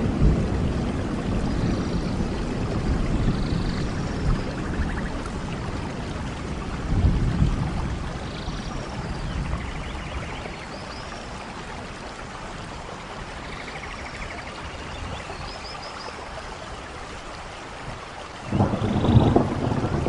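Steady rain falling, with deep rolls of thunder at the start, about seven seconds in, and again near the end.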